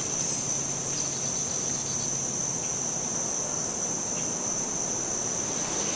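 Crickets chirring in a steady, unbroken high-pitched drone over a soft background hiss.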